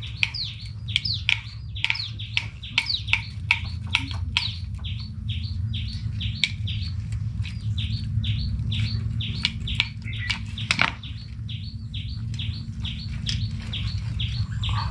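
Birds chirping: a rapid, continuous run of short falling chirps, several a second, over a steady low hum.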